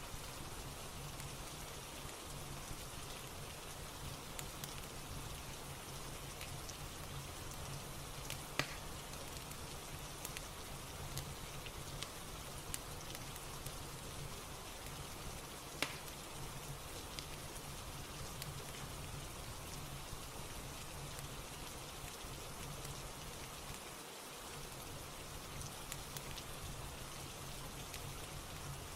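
Steady rain ambience, a constant even patter, with a crackling fire underneath giving occasional sharp pops, the loudest about nine and sixteen seconds in.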